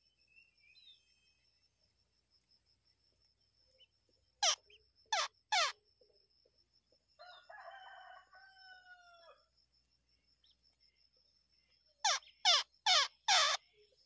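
Short, sharp, loud chirps from the shrike nest, three together about four and a half seconds in and four more near the end. Between them, a rooster crows once in the background, with a faint steady high whine throughout.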